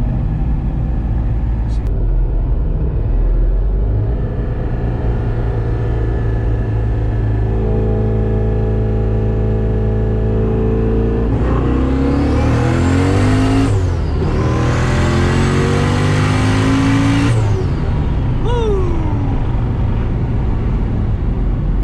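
Twin-turbo 427 LSX V8 of a C6 Corvette Z06, heard from inside the cabin: cruising, then building revs and pulling hard from about halfway, with a rising turbo whine. The pitch drops briefly at a gear change, climbs again, then cuts off as the throttle lifts, and a falling whistle follows as the turbos spool down.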